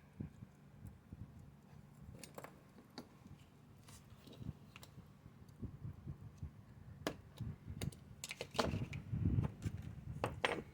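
Scattered light clicks and taps of small model parts and hobby tools being handled while marking and cutting strips for a model, growing denser and louder near the end.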